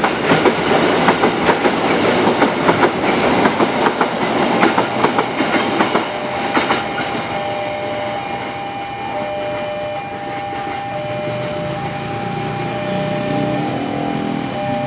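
Train passing, its wheels clicking over the rail joints in a quick rhythm that dies away about six seconds in. Two steady high tones then sound, one held and one switching on and off.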